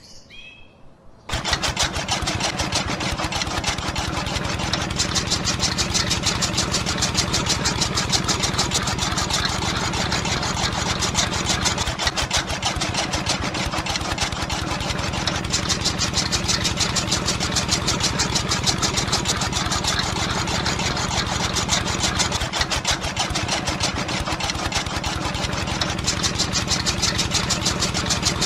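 A small engine running steadily with a fast, even firing rhythm. It comes in suddenly about a second in.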